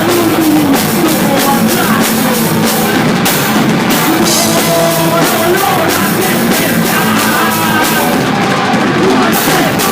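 Loud rock music: a band playing with a driving drum kit and guitars.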